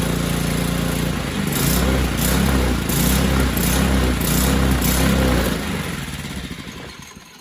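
Mini bike's small engine running on choke, its carburetor not yet cleaned; it is revved in about six quick surges, then slows and dies away near the end.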